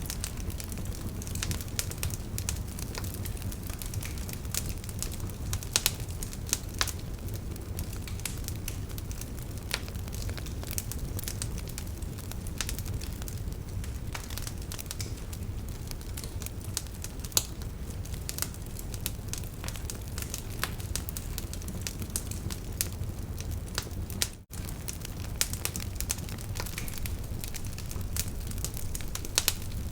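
Wood fire burning in a fireplace: a steady low rumble of flame with frequent sharp, irregular crackles and pops. The sound drops out for a split second about 24 seconds in.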